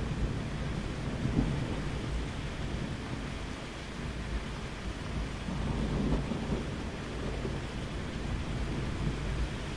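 Steady rain with low rolling thunder, the rumble swelling about a second in and again past the middle.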